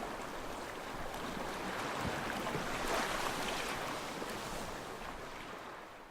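Sea surf washing onto a beach, a steady rushing noise that swells about halfway through and then fades out near the end.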